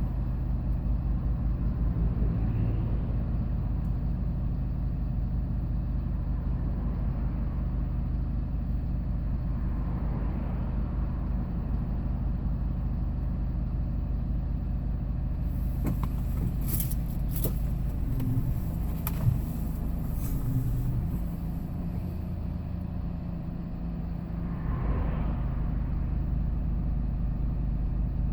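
Hyundai Porter 2 box truck driving along, its engine and road noise a steady low hum. There are a few brief clicks around two-thirds of the way through.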